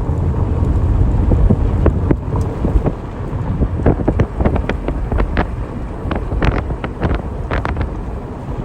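Strong wind buffeting the microphone as a heavy low rumble, with a scattering of sharp taps or clicks through the second half. The sound cuts off suddenly at the end.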